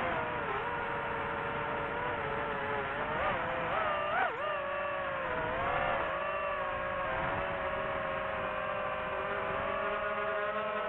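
Quadcopter drone's motors and propellers whining steadily, the pitch dipping and rising sharply a few times in the first half as the throttle changes, then holding level.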